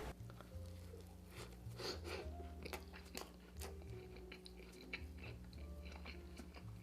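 A person chewing and biting food close to the microphone, with many short, sharp crunches spread irregularly through the chewing.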